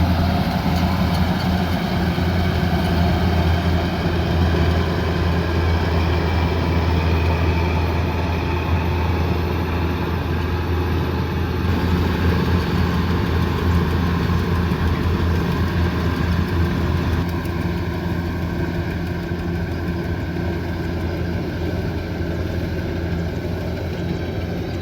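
Kubota combine harvester's diesel engine running steadily with a low, even hum; it eases slightly about two-thirds of the way through.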